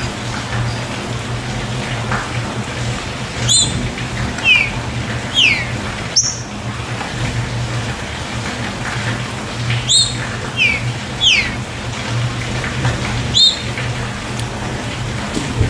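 Green-winged saltator (trinca-ferro) singing short phrases of clear whistles, each a high note followed by falling slurs, in three bouts, the song type keepers call the 'canto chuva'. Steady rushing water runs underneath.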